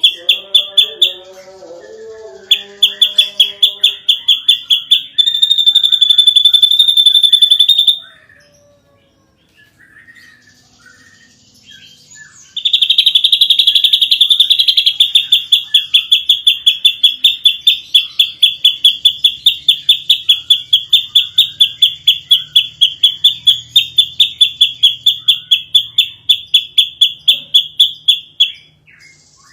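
Ashy drongo singing a fast, rattling run of repeated high notes, about four a second, in long bursts with a pause of about four seconds partway through. Lower warbling notes sound beneath it in the first few seconds.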